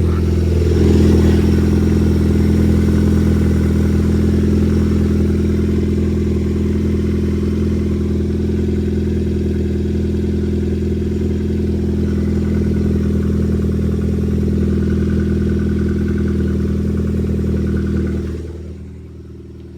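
2005 Nissan Sentra's 1.8-litre four-cylinder engine running steadily just after an oil change, heard from under the car. It grows quieter near the end.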